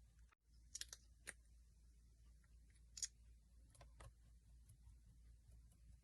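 Slime being played with by hand, giving a handful of faint, scattered sticky clicks and pops, the loudest about three seconds in.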